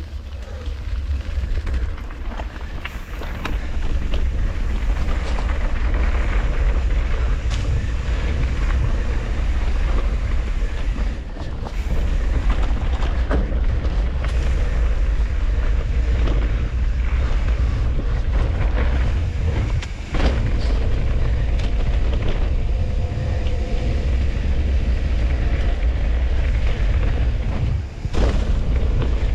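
Wind buffeting a mountain bike rider's camera microphone, a steady heavy rumble, with trail noise from the moving bike and scattered short knocks and rattles.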